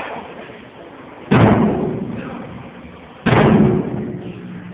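Two heavy strikes about two seconds apart, each dying away with a low ring: the opening signal that a stage play is starting.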